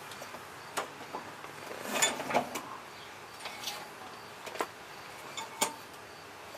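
Scattered light clicks and knocks of hands handling a new lawnmower pull rope and its recoil starter, a few seconds apart.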